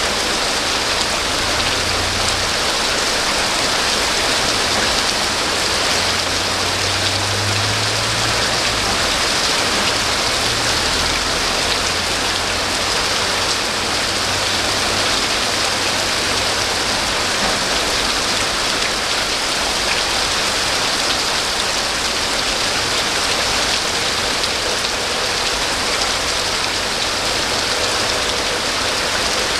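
Steady heavy rain falling and pattering on surfaces, an even unbroken hiss. A faint low hum sits under it through roughly the first half.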